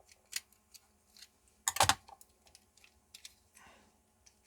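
Small plastic clicks and taps of a battery wall clock's mechanism being handled and fitted back together, with a louder cluster of clicks a little under two seconds in.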